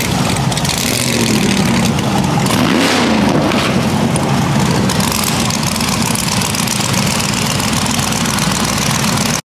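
Several car engines idling in a line, with one revving up and back down about three seconds in. The sound cuts off abruptly near the end.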